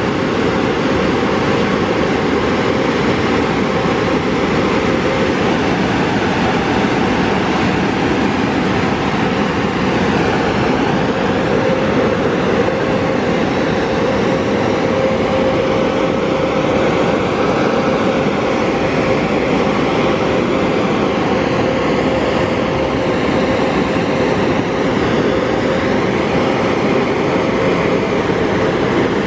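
Car wash air dryers blowing steadily: a loud, even rush of air with a steady hum underneath, the drying stage after the spot-free rinse.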